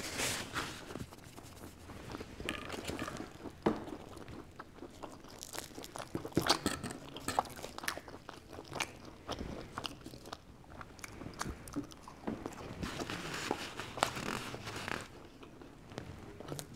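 Close-up eating sounds of cheesy garlic bread: crunchy bites into the crust and wet chewing, with scattered sharp clicks at an irregular pace.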